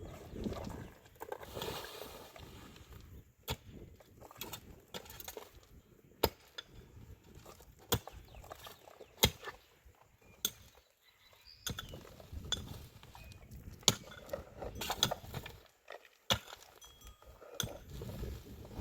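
A series of sharp clinks and knocks of hard objects striking, irregularly spaced about every one to two seconds, over low rustling.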